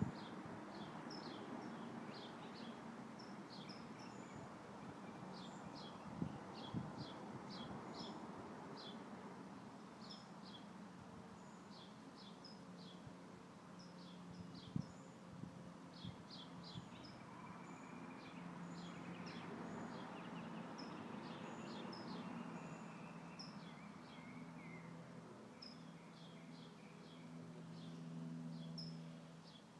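Small birds chirping quickly and repeatedly over a soft rustle of wind through a tree's leaves, with a faint low hum underneath and a couple of light knocks.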